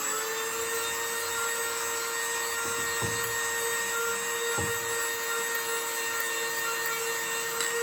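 Dremel rotary tool running at a steady high speed, with a soft sanding grit taking rust off an RC shock shaft.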